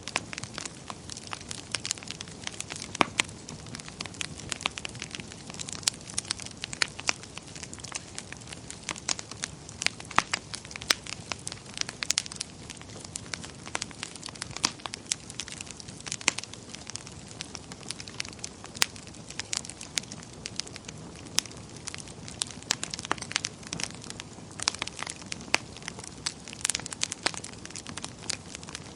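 Wood fire burning in a fireplace, crackling with frequent sharp, irregular pops over a soft steady hiss.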